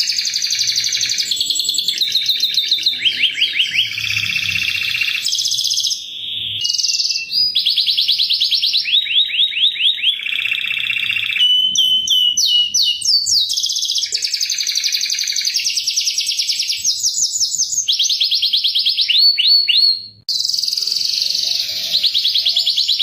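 Domestic canary singing a continuous song of fast trills: each phrase is a rapid run of repeated high chirps, jumping to a new pitch from phrase to phrase. The song breaks off briefly about three seconds before the end.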